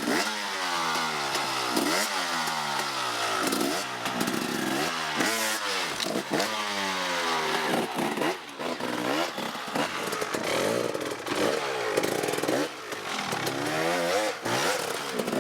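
Off-road motorcycle engine revving hard, its pitch climbing and dropping again about once a second as the rider goes on and off the throttle and through the gears.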